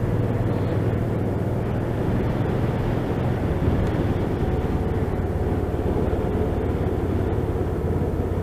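Motorcycle riding at steady speed, its engine hum and wind rush heard from a mic inside the rider's helmet, even and unchanging.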